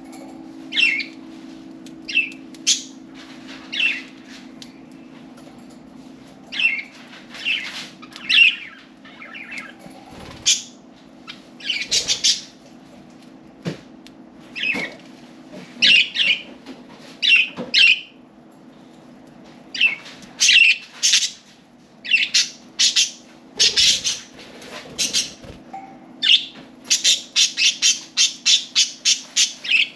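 Budgerigars chirping: short, high, scattered chirps, ending in a fast run of about a dozen repeated chirps near the end.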